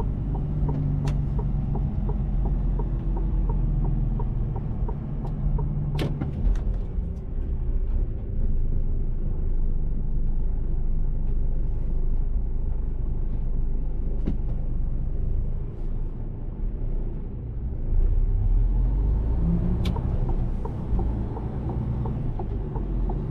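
Mercedes-Benz Actros truck under way: a steady low engine drone with road rumble, a little louder about three-quarters of the way in, and a few short sharp clicks.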